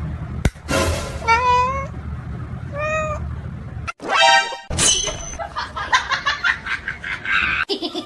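A cat meowing several times, a series of separate pitched, bending calls, with a sharp click about half a second in. Background music plays underneath.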